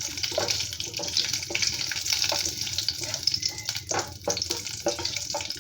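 Dry fruits sizzling as they fry in hot ghee in a pan, a steady hiss with occasional clicks of stirring against the pan.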